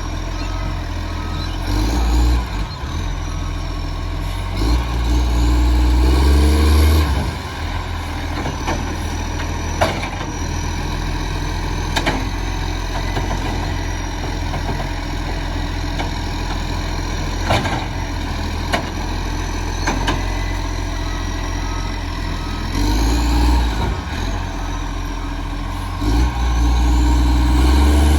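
Recycling garbage truck's diesel engine idling, revving up twice for a couple of seconds each time with a rising whine, and a few sharp knocks in between.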